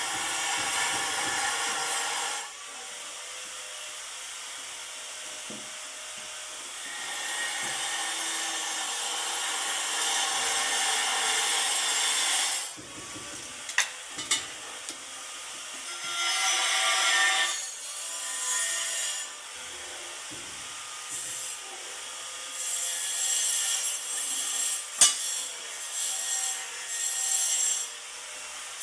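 A hand tool rasping against a hard board surface in about four long bouts of a few seconds each, with quieter pauses between them. A few sharp knocks come around the middle and a louder one near the end.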